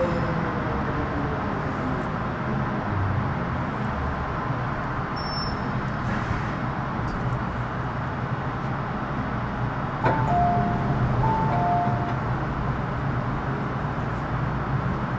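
Metro Cammell M-Train with GEC GTO chopper traction, heard from inside the car: steady running rumble of the train, its chopper whine falling in pitch at first as it slows. About ten seconds in there is a sharp clunk, then a two-note chime sounds twice.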